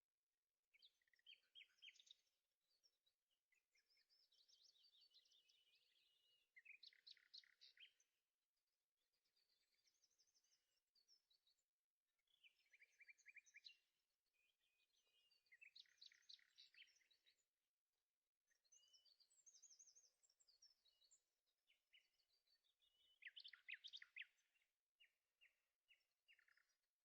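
Faint birdsong: birds chirping and singing quick trills in short repeated phrases with brief pauses between them.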